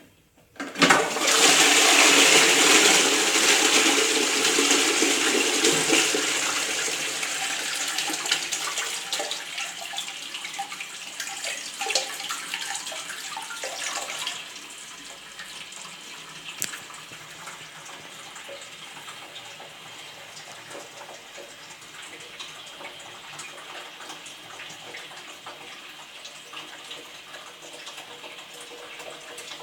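Toilet bowl flushing: a loud rush of water starts suddenly about a second in and tapers off over the next dozen seconds. A quieter, steady run of water follows.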